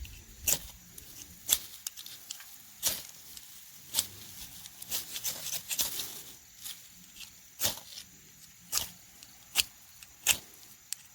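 A striker scraped hard down a fire-starting spark rod again and again, about ten quick sharp scrapes roughly a second apart. These are repeated strikes throwing sparks into bird's-nest tinder that has not yet caught.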